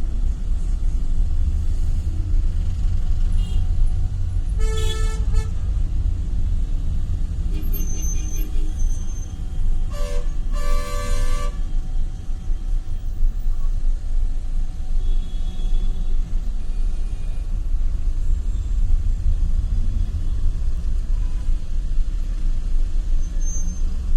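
Road traffic with a steady low rumble of passing vehicles, and vehicle horns honking: one blast about five seconds in, a fainter one around eight seconds, and two blasts back to back around ten to eleven seconds.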